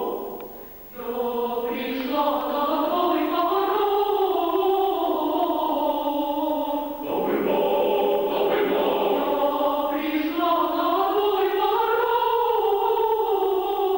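Choir singing sustained chords whose pitches rise and fall. The sound drops out briefly about a second in, then returns, with a short break near the middle before the chords resume.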